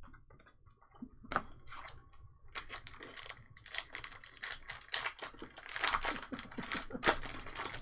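Trading card packs and cards being handled: a dense run of crinkling and clicking that starts about a second and a half in and carries on to the end.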